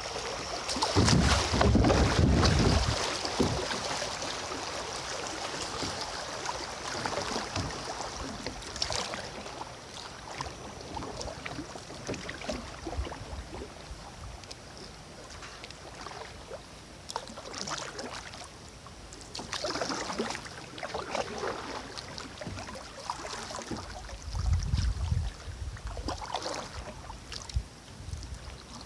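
Kayak paddle dipping and splashing in river water, stroke after stroke over a steady wash of water, with two louder low rumbles, about a second in and near the end.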